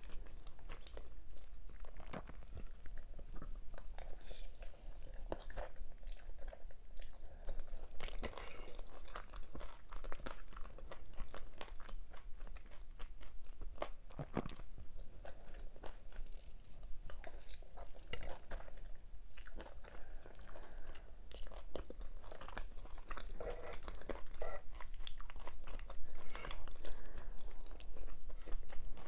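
A person chewing and biting food, with a dense stream of small irregular mouth clicks and wet smacks, a little louder near the end.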